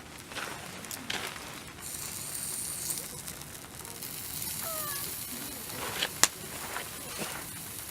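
Wood campfire crackling, with scattered sharp pops, one louder pop about six seconds in.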